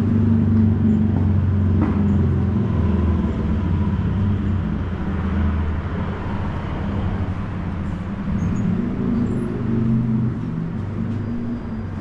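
City street traffic: a motor vehicle's engine running close by as a steady low hum, fading away through the second half, over general street noise.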